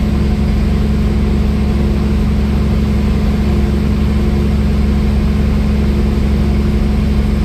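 Semi truck's diesel engine running at a steady speed, a constant low drone with no change in pitch.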